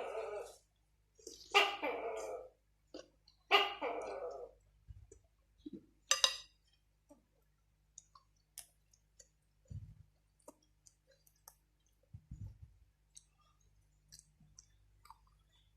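A tokay gecko calling: three loud calls about two seconds apart in the first few seconds, then scattered faint clicks and a few soft thuds.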